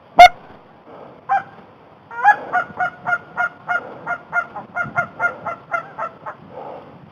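Goose honks: one very loud honk, a second about a second later, then a fast even run of about a dozen more honks at the same pitch, around three a second.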